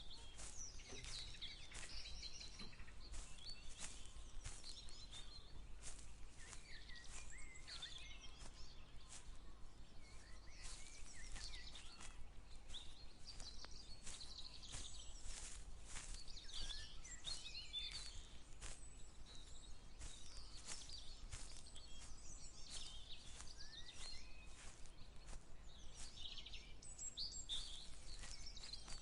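Several songbirds chirping and singing at once, with the steady footsteps of someone walking at about one to two steps a second, over a low rumble of wind or handling.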